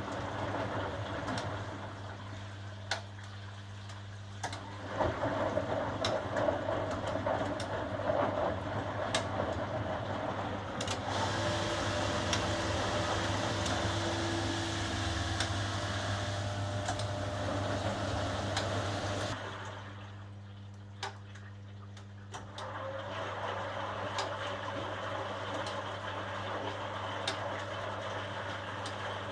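1980 HUWA Automatic Standard 4 washing machine running through its wash cycle: a steady motor hum with water sloshing and scattered clicks, which quietens for about three seconds about two-thirds in and then starts up again.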